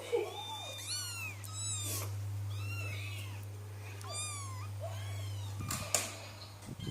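Persian kitten crying for its mother: a string of about eight short, high-pitched meows, each rising and falling in pitch, over a steady low hum that stops near the end, with a couple of sharp knocks.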